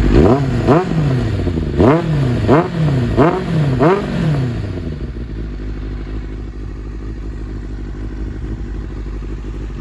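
2008 Kawasaki ZZR600's inline-four engine revved in about six quick throttle blips over the first four seconds, each one rising sharply and dropping straight back. It then settles to a steady idle.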